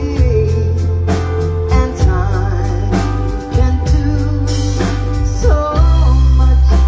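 A band playing a song: drum kit, a deep sustained bass line and guitar, with a singing voice over them.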